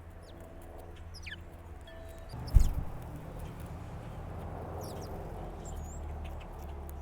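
Small backyard songbirds giving short high chip calls, with one quick falling call about a second in. A single low thump about two and a half seconds in is the loudest sound, over a steady low background hum.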